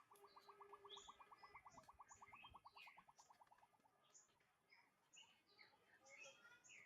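Faint birdsong: a fast trill of about ten even notes a second that stops about four seconds in, with short high chirps from other birds throughout.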